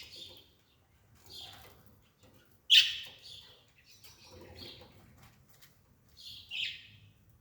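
A bird chirping in short, irregular calls, the loudest about three seconds in and two more close together near the end.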